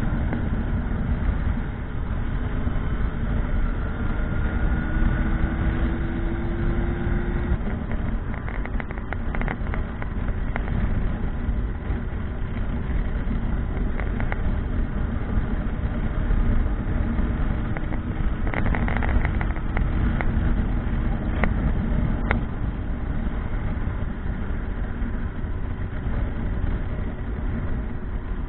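Motorcycle on the move: a steady low rumble with a faint engine note that rises slowly between about five and seven seconds in, and a few short sharp clicks near the middle.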